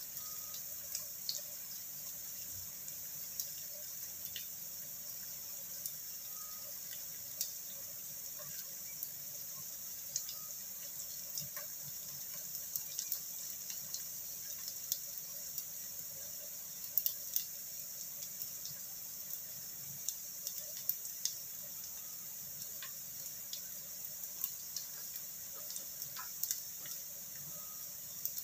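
Shallots, garlic and ginger frying in a shallow layer of oil: a faint steady sizzle with scattered small pops and crackles.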